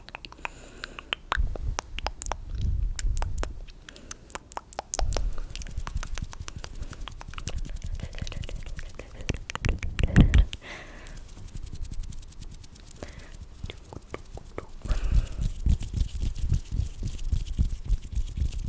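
Close-miked ASMR hand and mouth sounds: a quick run of sticky clicks and crackles, with several stretches of soft low rubbing against the microphone.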